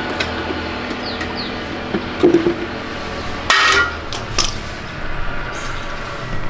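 Hard knocks and clinks of hand tools and parts being handled, a few separate strikes with the loudest about halfway through, over a steady hum.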